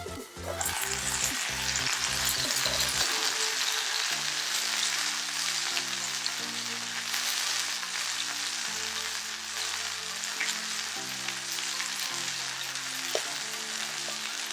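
Beef searing in a hot Turk forged-iron frying pan, a dense steady sizzle that starts suddenly about half a second in.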